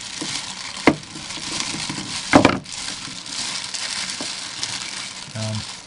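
Crinkling, crackling handling noise, with a sharp knock about a second in and a louder clunk just after two seconds.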